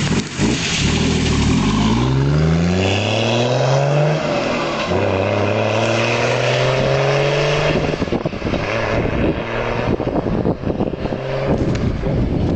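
Volvo 760's turbodiesel engine, its injection pump turned up to run about 1 bar of boost, accelerating hard: the pitch climbs, drops at a gear change about four seconds in, then climbs again more slowly. From about eight seconds in it eases off and the sound turns rougher and choppier.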